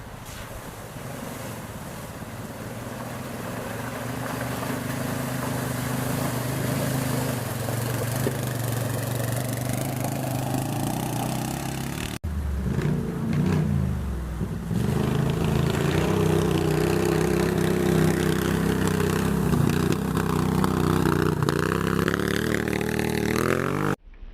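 Racing engines running, the sound growing louder over the first few seconds. It breaks off abruptly about halfway through and goes on with another engine note that wavers in pitch.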